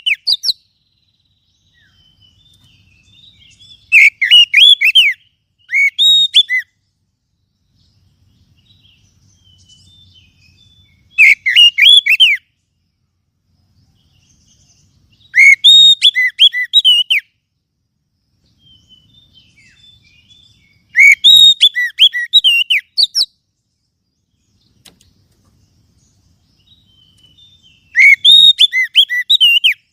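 Oriental magpie-robin (kacer) singing in loud bursts of rapid, varied notes, each burst about one to two seconds long, separated by pauses of a few seconds with faint softer notes in between.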